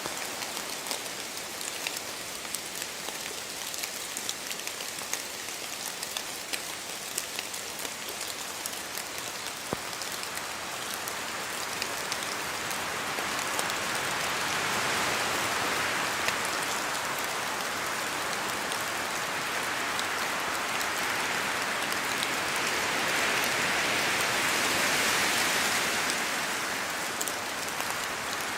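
Steady rain falling in a spruce forest, with drops from the trees hitting sharply. Wind through the trees swells twice, about halfway through and again more strongly near the end.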